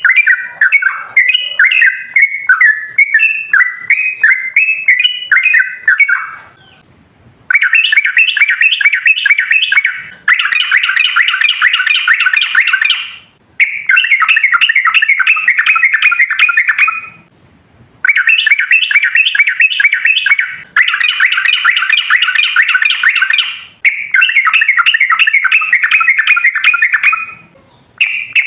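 Yellow-vented bulbul (trucukan) singing. About six seconds of bubbly, varied phrases, then long, fast rolling strings of notes in bouts of about three seconds with brief pauses between them: the long 'ropel' song.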